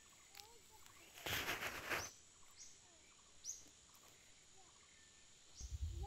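Birds calling in short sharp chirps and curving whistles about once a second, over a faint steady high tone. About a second in, a brief rustling noise, under a second long, is the loudest sound.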